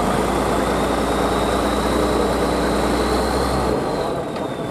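Heavy truck engine running steadily, with a low drone that drops away near the end.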